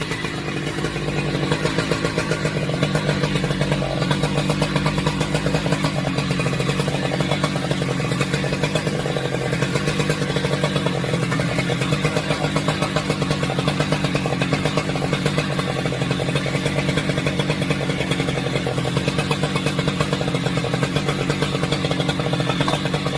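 Two-stroke chainsaw engine running steadily at low speed without cutting, a fast even pulsing at a constant pitch.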